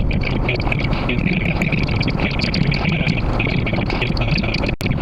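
Car driving on the highway, heard from inside through a dashcam and played back sped up: a steady, dense road noise with a choppy high hiss, broken by a brief dropout near the end.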